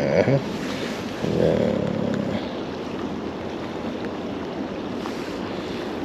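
Steady rushing noise of wind on the microphone outdoors, with brief voice sounds in the first couple of seconds.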